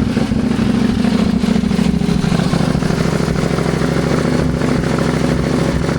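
CFMoto Ibex 800 T motorcycle engine running steadily under way, its note shifting slightly about two seconds in.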